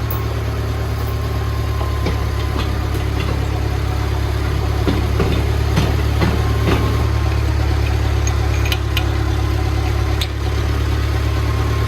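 Perkins diesel engine of a Clark forklift running steadily at idle, with a few light clicks and knocks over it.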